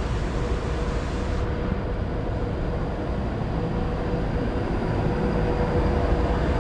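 A train running at a station platform: a steady rumble with a steady humming tone, slowly growing louder.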